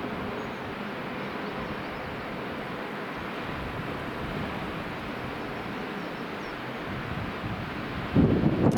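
Rhaetian Railway train running past with a steady rolling noise, and a louder, deeper rumble starting near the end.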